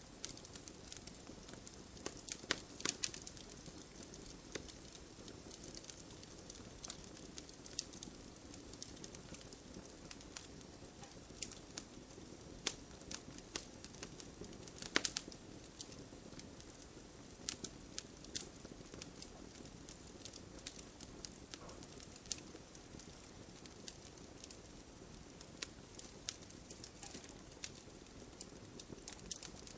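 Wood fire crackling, with irregular sharp pops and snaps, the loudest about halfway through, over a steady hiss of rain falling.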